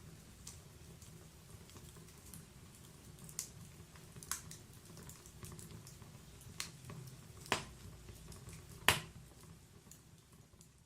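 Wood fire burning in a fireplace: a low steady rumble of flames with scattered sharp crackles and pops from the burning logs, the loudest pop about nine seconds in. The sound fades down near the end.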